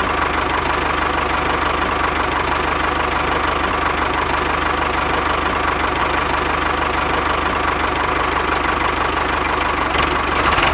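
Small engine of a homemade mini tractor running steadily at an even speed, with a fast, regular low pulse.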